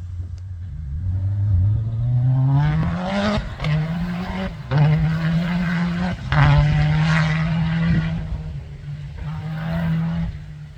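Competition safari off-road racer's engine accelerating hard: it revs up over the first few seconds, then runs at high revs with three short breaks like gear changes, easing off near the end.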